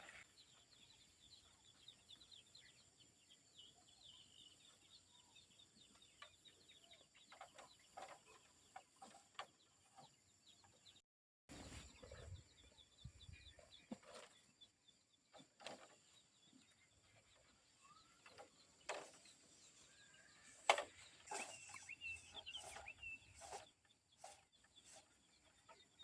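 Faint chickens clucking, with scattered short chirps and light knocks.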